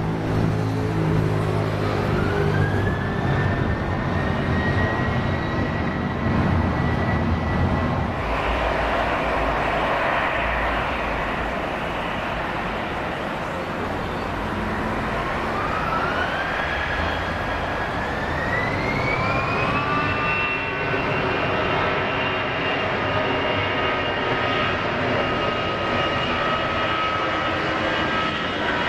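Jet engines running on a departing airliner, a Boeing 777-300ER's, with heavy rumble and a whine that rises to a steady high tone. About eight seconds in the sound changes abruptly to an Airbus A320's CFM56 engines spooling up, with a whine that climbs in two steps to a steady high pitch over the engine noise.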